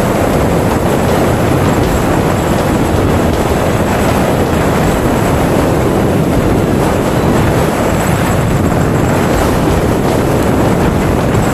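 Strong wind buffeting the microphone: a loud, steady rush of wind noise, deepest in the low end, with no letup.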